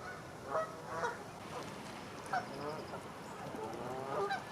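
Geese honking: a few short honks, then a quick run of honks near the end, with a small bird chirping faintly.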